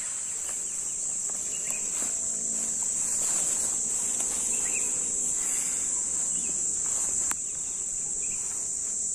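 Steady high-pitched drone of a chorus of insects, with a single sharp click about seven seconds in.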